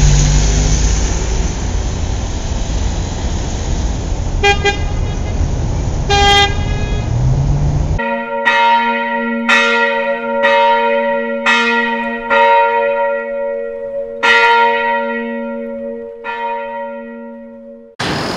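Street traffic rumble with two short car horn toots, then a sudden cut to a church bell struck about once a second, each stroke ringing on and the sound fading towards the end.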